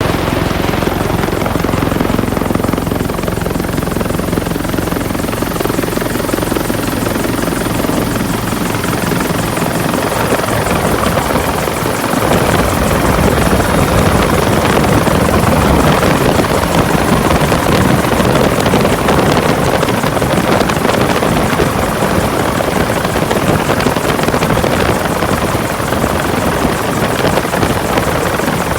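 Helicopter in flight with its rotor and turbine running steadily, heard close and loud; the sound grows fuller and slightly louder about halfway through.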